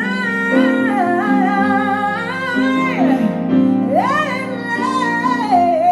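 A woman singing live, holding long wordless notes with vibrato and sliding pitch in two phrases, over piano accompaniment.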